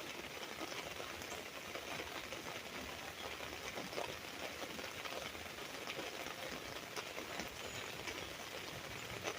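Steady rain on an umbrella: a continuous patter of drops with many small, sharp taps of single drops striking the canopy.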